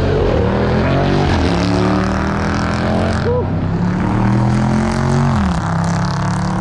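A performance car's engine revving and pulling away, its pitch climbing in the first second, holding steady, then dropping off about five and a half seconds in as the throttle is lifted.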